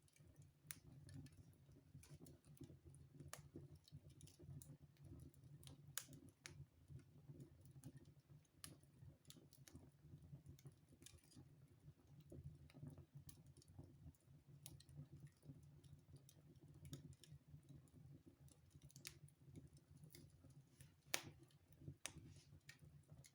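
Wood fire crackling in a fireplace: irregular sharp snaps and pops over a faint low rumble, with one louder pop near the end.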